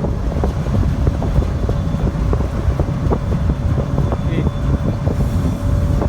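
Wind buffeting the microphone over the low, steady rumble of a car ferry under way, with crackling from the wind hits.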